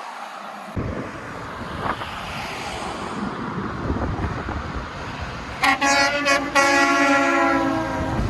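A truck passing close by, with the driver sounding its air horn: a couple of short blasts, then one long chord-like blast held for about a second and a half.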